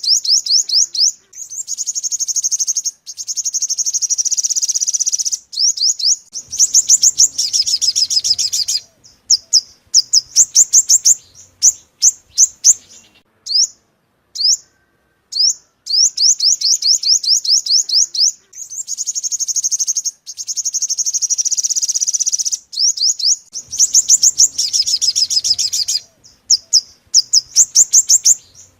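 Recorded lure song of a yellow-bellied sunbird: rapid high-pitched chirps and trilled runs broken by short pauses. The same phrase sequence repeats about every fifteen seconds, as a looped call.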